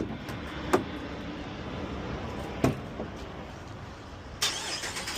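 Handling noises from a Ram 2500 Power Wagon pickup truck: two short sharp knocks, then a louder rush of noise starting near the end.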